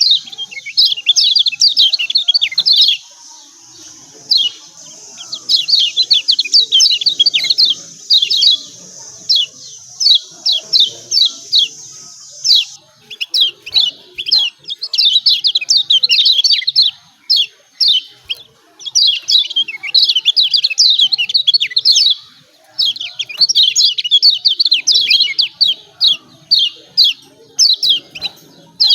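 Kecial kuning (yellow white-eye) singing its 'ciak ciak' song: fast runs of sharp, high, downward-slurred chirps, several a second, broken by short pauses.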